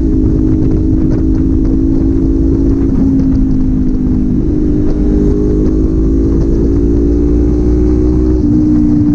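Kawasaki Z400's parallel-twin engine and exhaust, heard from the rider's seat while riding. The engine note holds steady with slow drifts in pitch and shifts a few times, over a low wind rumble.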